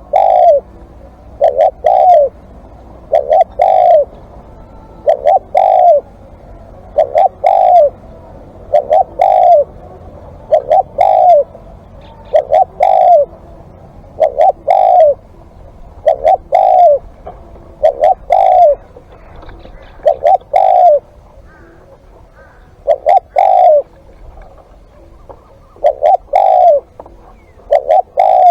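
Spotted dove cooing close up, a decoy bird repeating its short two- or three-note phrase about every two seconds, with one slightly longer pause a little past the two-thirds mark.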